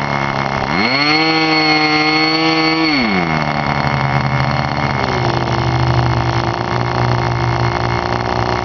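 K&B Fuji .05 two-stroke glow engine with a muffler, running at a very low, quiet idle. About a second in it revs up, holds the higher speed for about two seconds, then drops back to idle and settles a little faster.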